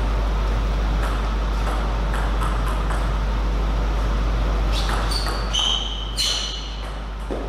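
Table tennis ball clicking against table and bat, with a cluster of sharp pinging hits that ring briefly about five to six and a half seconds in, over a steady hall hum.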